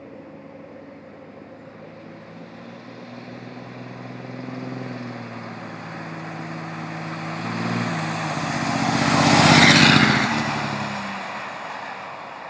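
Dodge Ram 2500's Cummins 5.9-litre turbo-diesel running through a 4-inch downpipe into a 5-inch exhaust with muffler. It grows steadily louder to a peak nearly ten seconds in, the exhaust note loudest there, then fades away, as a truck passing by does.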